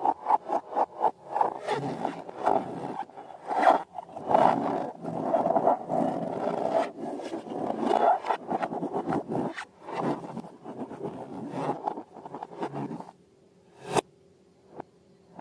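Slime and balloons being handled and worked: dense, rapid crackling, rubbing and squishing noises in irregular bursts. They stop about 13 seconds in, and a single sharp click follows shortly after.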